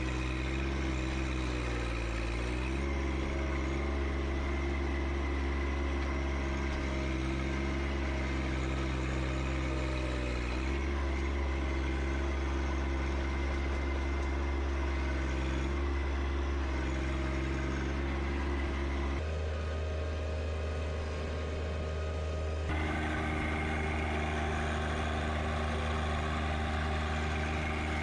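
John Deere 1025R compact tractor's three-cylinder diesel engine running steadily under work, its pitch dipping briefly twice, with a shift in its sound for a few seconds past the middle.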